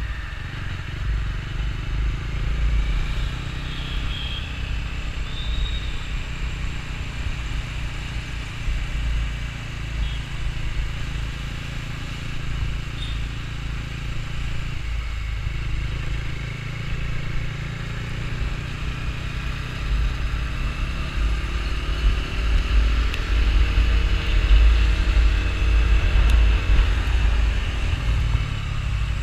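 Bajaj Dominar 250's single-cylinder engine running as the motorcycle rides through traffic, under heavy wind rumble on the microphone. The engine pitch rises and falls a few times in the second half, loudest a little after the middle.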